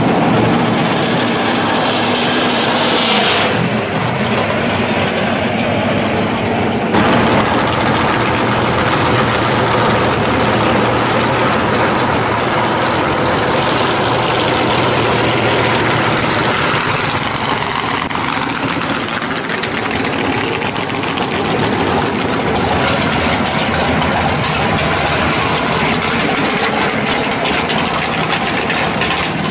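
Engines of hot rods and drag cars, among them a supercharged Camaro, running loudly at idle as the cars roll past one after another. The sound changes abruptly about 4 and 7 seconds in.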